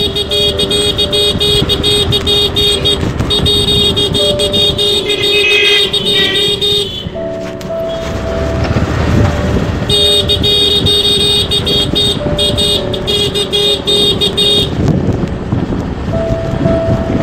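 Busy road traffic with vehicle horns honking in long, repeated blasts over engine noise. The horns drop out for a few seconds near the middle of the stretch, leaving a low rumble of traffic.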